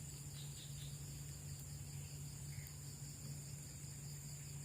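Night insects, crickets, chirping: a steady high trill with a pulsing chirp about four times a second, over a steady low hum.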